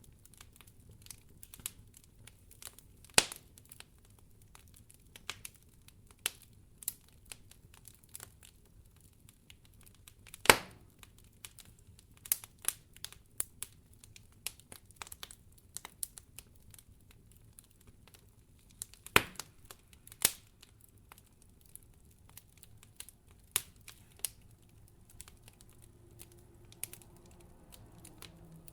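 Wood fire crackling in a fireplace: scattered small snaps throughout, with a few louder pops about 3, 10, 19 and 20 seconds in.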